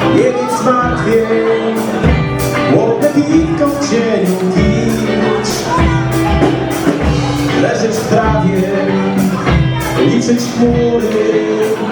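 Wedding band playing live dance music with a steady drum beat and sustained melodic lines: the instrumental lead-in before the vocals come in.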